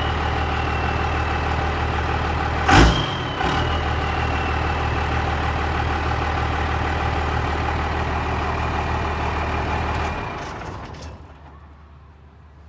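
1995 Dodge's 12-valve Cummins diesel idling, with a high whine that slowly falls in pitch and one sharp knock about three seconds in. About ten seconds in the engine shuts off and the sound dies away.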